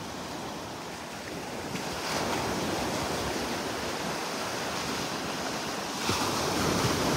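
Gulf of Mexico surf washing up the beach, swelling about two seconds in and again about six seconds in, with some wind on the microphone.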